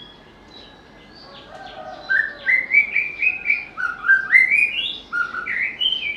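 White-rumped shama singing: a loud run of short rising notes, climbing in steps, starts about two seconds in. Fainter bird calls sound before it.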